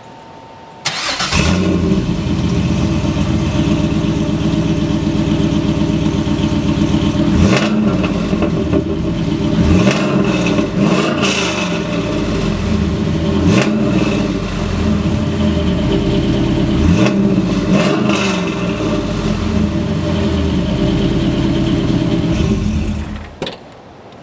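2002 Pontiac Trans Am WS6's 5.7-litre LS1 V8 starting up about a second in, then idling through its exhaust with several quick revs that rise and fall. It is switched off near the end.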